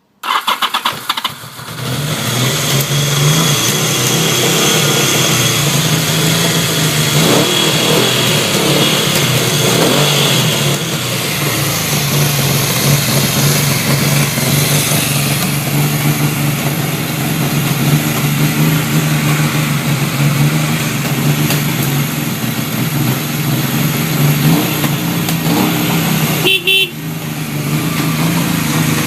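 Yamaha XS750 Special's inline three-cylinder engine cranked on the electric starter and catching within about two seconds, then running steadily, its pitch rising and falling a few times in the first half. The sound dips briefly near the end before the engine runs on.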